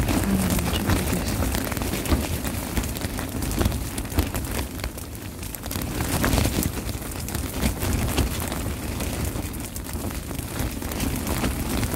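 Strong wind gusting against a Big Agnes Copper Spur backpacking tent, its crinkly fly fabric flapping and rustling with many sharp crackles as it rubs against the poles, over a heavy wind rumble on the microphone. The gusts ease off a little about five seconds in, then pick up again.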